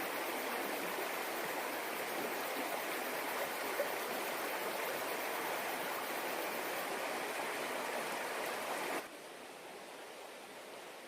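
Stream water running steadily; about nine seconds in it cuts off suddenly to a fainter, softer hiss.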